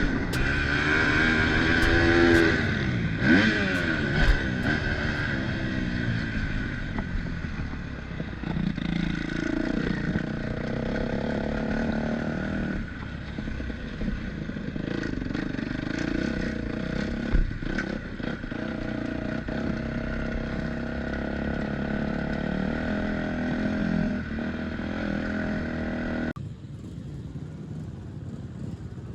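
Single-cylinder four-stroke engine of a 2022 Kawasaki KX250F motocross bike running as it is ridden, its pitch rising and falling with the throttle in the first few seconds, then steadier. The sound drops in level suddenly near the end.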